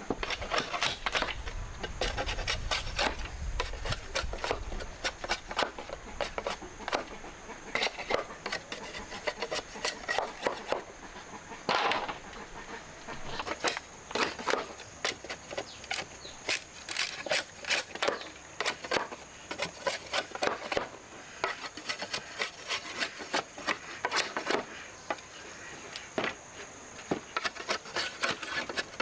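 Irregular rubbing and scraping with many short clicks, like steady handwork on wood or dry material.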